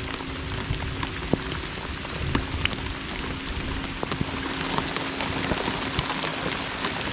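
Heavy rain pouring down: a steady hiss of rainfall with many individual drops ticking sharply close to the microphone.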